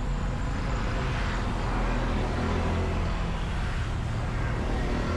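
Motorcycle engine running, with steady road and traffic noise around it.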